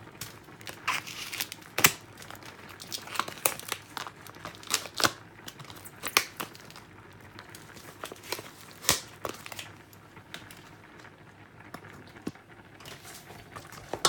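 Irregular crinkling, crackling and tearing as smoked mackerel is handled and pulled apart by hand.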